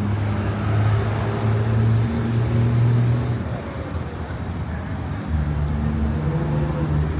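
Car engines running close by over street traffic: one deep engine note rises in steps for about three seconds, then falls away, and another low engine note comes in about five seconds in.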